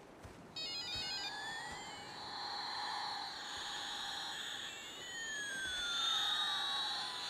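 Electronic feedback tones: a quick run of short stepped high beeps, then high whistling tones sweeping up and down and crossing each other twice, cutting off suddenly at the end. This is the amplified hearing-aid feedback the characters use as a weapon against the creatures.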